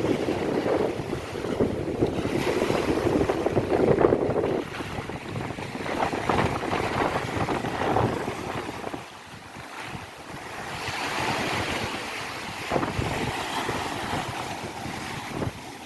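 Ocean waves breaking and washing up a beach: a loud wash at the start, easing off after about nine seconds, then another wave surging in. Wind buffets the microphone throughout.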